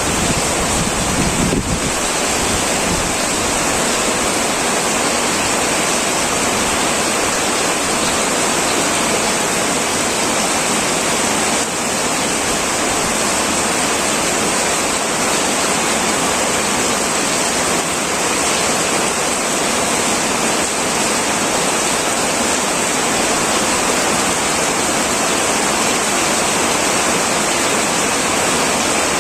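Heavy rain falling steadily on a tin roof, a loud, even hiss with no breaks. A low rumble underneath dies away about two seconds in.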